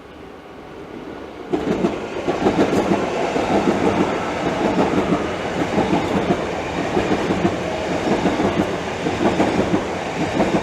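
A c2c electric multiple-unit passenger train passing through the station, its wheels clattering over the rail joints. The noise swells and then comes in sharply about a second and a half in, staying loud as the carriages go by.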